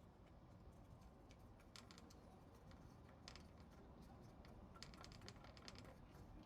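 Faint, irregular clicks and short scratches of a cat pawing at a door with its claws.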